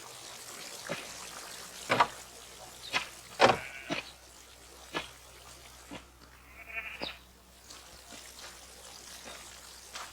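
Sheep bleating briefly a couple of times, among a scatter of sharp knocks.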